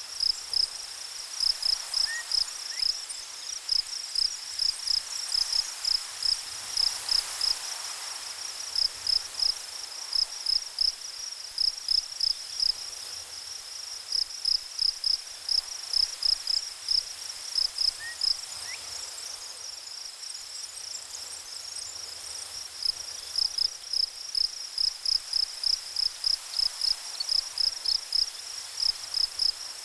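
An insect chirping steadily and high-pitched, about three chirps a second, pausing briefly twice, over a faint steady hiss.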